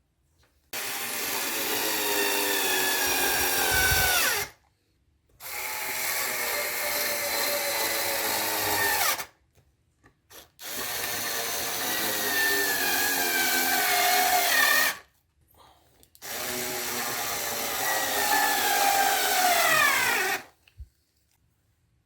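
A small electric power tool runs in four bursts of about four seconds each. In each burst the motor's pitch holds steady, then drops as the run winds down before cutting off.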